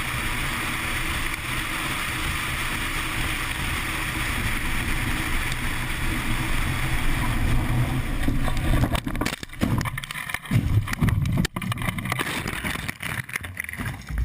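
A vehicle running steadily. About eight or nine seconds in, the sound turns choppy and uneven, with sudden dips and surges.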